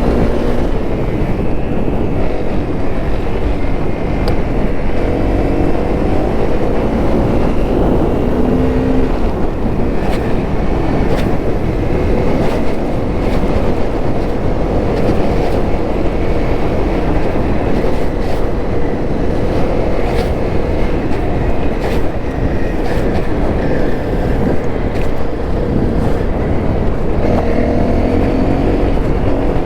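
Honda CRF250L's single-cylinder four-stroke engine running while riding, its pitch rising and falling with throttle and gear changes, over a steady low rumble. There are a few sharp ticks in the middle.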